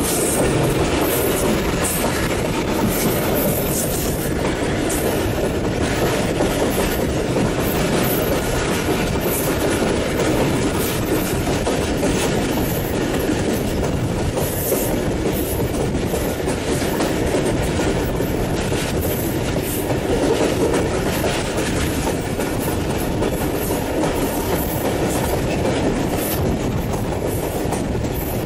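Passenger train running across a river bridge at speed: a steady, loud rumble of the carriages with the continuous clickety-clack of the wheels over the rail joints.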